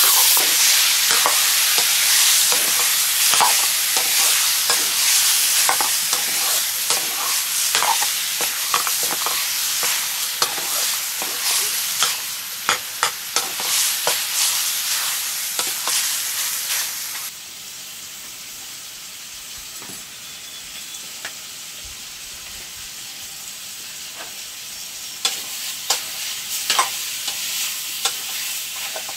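Pork curry frying and sizzling in a pan while it is stirred, the spoon clicking and scraping against the pan. About two-thirds of the way through, the sizzle drops suddenly to a quieter hiss, and the stirring clicks return near the end.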